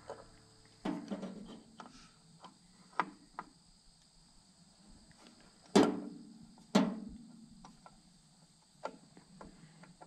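Scattered clinks and knocks of hand tools and metal parts as a tractor's oil filter housing is refitted and tightened, with two louder knocks about six and seven seconds in. A faint, steady high insect drone runs underneath.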